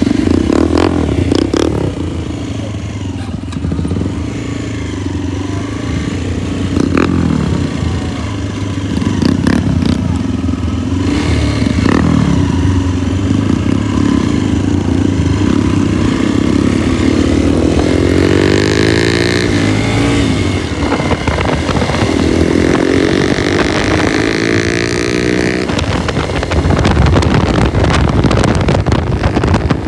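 Motorcycle engine running under way, steady for most of the time, then rising and falling in pitch twice in the second half as the rider works the throttle.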